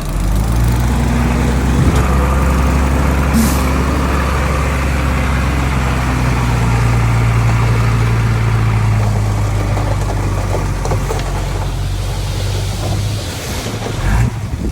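Heavy diesel engine of earthmoving machinery running steadily at a constant pitch, then dying down about thirteen seconds in. There is a short hiss about three and a half seconds in.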